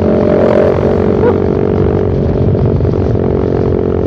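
Motorcycle fitted with a short Pro Liner aftermarket muffler, run without its dB killer, cruising on the road with a loud, steady, droning exhaust note that holds nearly one pitch.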